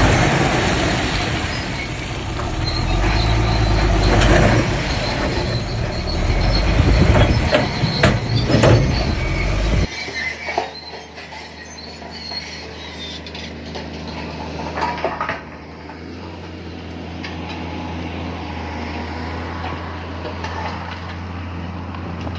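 Shantui crawler bulldozer working: the diesel engine runs under load with loud metallic clanking and squealing from the tracks. About ten seconds in the sound cuts abruptly to a steadier engine drone with occasional knocks.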